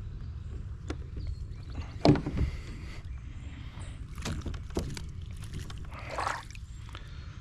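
Knocks and bumps on a plastic fishing kayak as a freshly landed bass is handled aboard, the loudest a thump about two seconds in, over a steady low rumble.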